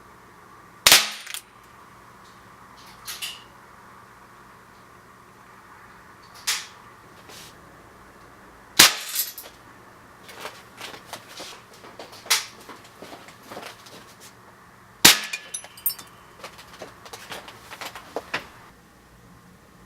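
Air rifle shots with explosive "Blik" pellets: three loud, sharp cracks, about eight and six seconds apart, as the pellet's flash compound bursts. Quieter cracks, clicks and knocks fall between them.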